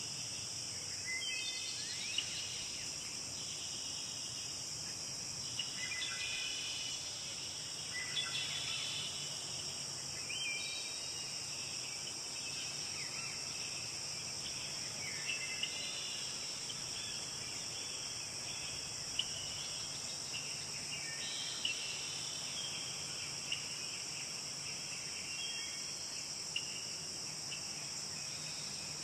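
Steady high-pitched insect chorus with birds chirping and calling on and off over it, now and then with a sharp click or tick.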